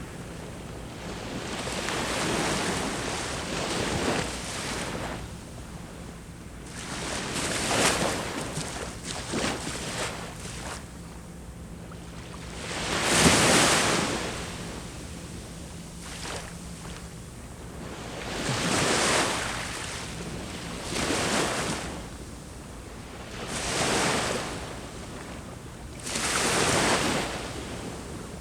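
Sea waves breaking and washing on the shore, a surge swelling and fading every few seconds, the biggest about 13 seconds in. A faint steady low hum runs underneath.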